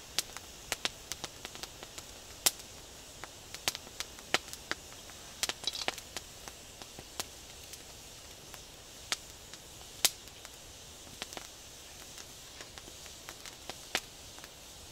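Wood campfire crackling: sharp, irregular pops, a few of them much louder, over a faint steady hiss.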